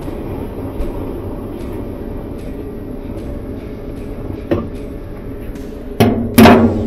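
Hand tools working on an old Whirlpool washer's drive parts: a few light knocks over a steady low rumble, then two loud clanks near the end, the second ringing briefly.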